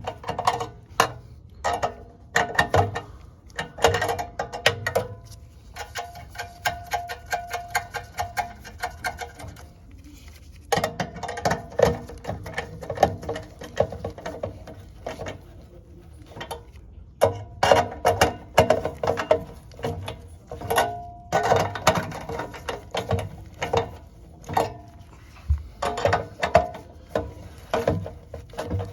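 Hand tools working metal fittings on a water heater's pilot assembly: bursts of rapid metallic clicking and clinking, as of a ratchet wrench, broken by short pauses.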